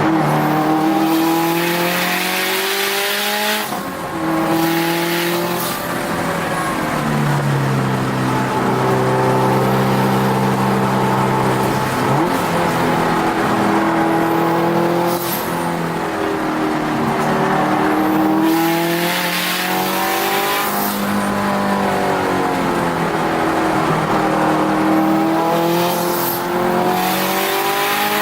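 Turbocharged Subaru WRX STi flat-four engine heard from inside the car under hard track driving, its pitch climbing under acceleration and dropping suddenly at gear changes and braking, several times over.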